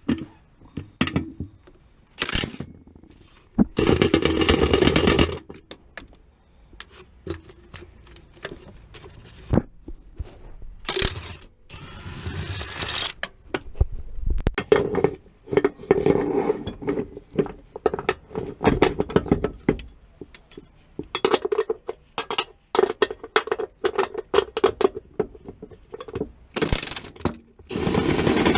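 Metal tools and parts clinking, knocking and scraping during car repair work, broken by several longer bursts of steady mechanical noise.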